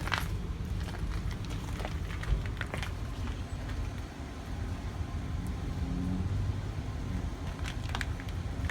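Steady low rumble of a vehicle running, with scattered light clicks and rustles over it.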